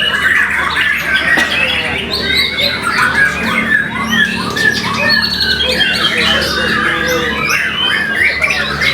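White-rumped shama (murai batu) singing a dense, unbroken run of varied whistles and chattering notes, with a steady low hum underneath.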